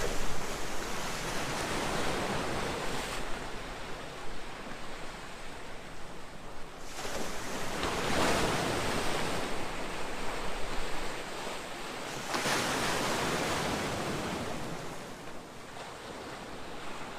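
Ocean surf: waves breaking and washing up the beach, a rushing noise that swells and fades in about three surges.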